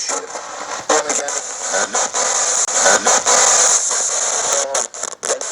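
Spirit box (ghost box) sweeping through radio stations: steady static hiss broken by abrupt cuts and dropouts as it jumps between frequencies, with brief snatches of broadcast sound.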